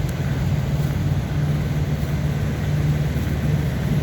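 Steady low drone of idling vehicle engines, with no change over the few seconds.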